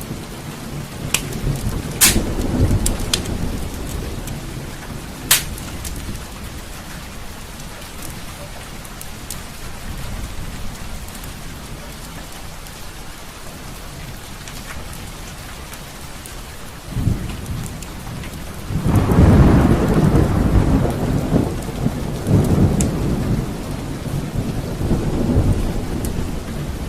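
Steady rain with a long roll of thunder that starts about two-thirds of the way in and rumbles on, loudest just after it builds. A few sharp crackles stand out in the first few seconds.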